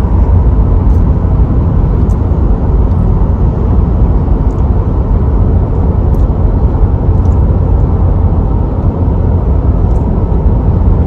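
Steady road and engine noise of a moving car, heard from inside the cabin as a loud, even low rumble.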